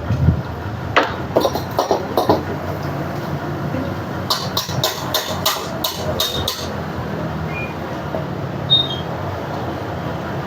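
A quick run of about eight sharp knocks in the middle, after a few lighter clicks, over steady background noise.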